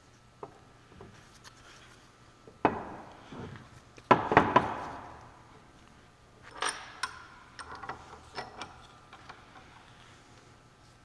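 Metal-on-metal knocks and clinks as a Dana 44 differential carrier with setup bearings and shims is set down into a Salisbury differential housing: one knock a few seconds in, a louder short clatter about four seconds in, then lighter clinks.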